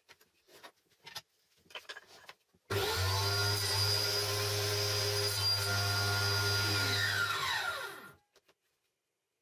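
A few light knocks from wood being handled, then an electric power tool is switched on, runs steadily for about five seconds, and is switched off, its pitch falling as it winds down to a stop.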